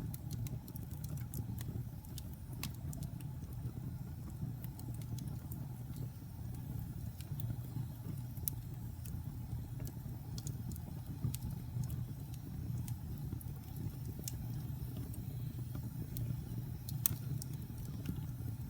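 Wood fire in a fireplace crackling, with scattered sharp pops over a low steady rumble; one pop near the end is louder than the rest.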